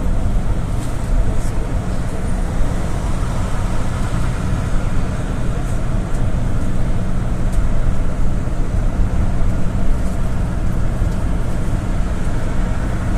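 Interior noise of a GAZ-A68R52 GAZelle City minibus on the move: a steady engine hum under constant road noise.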